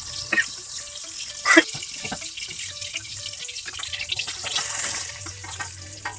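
Water running and splashing, as when something is rinsed under a stream of water. A few short knocks sound over it, the loudest about a second and a half in.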